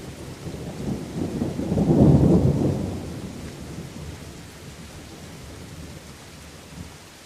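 Steady rain with a deep rolling thunder rumble that swells to a peak about two seconds in and fades away over the next few seconds.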